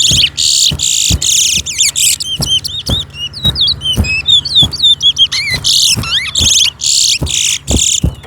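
Caged towa-towa seed finches singing in a song race: fast, whistled, sweeping phrases and bright trills follow one another without a break. Low knocks recur beneath the song.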